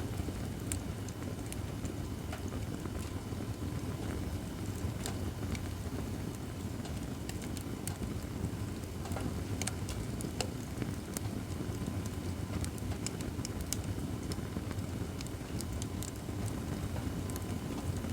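Acacia firewood burning in a campfire stand, with frequent sharp crackles and pops scattered over a steady low noise.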